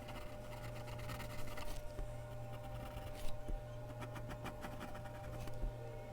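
Mechanical pencil scratching on Bristol paper in runs of quick short strokes with brief pauses, over a steady low electrical hum; a single light tap about three seconds in.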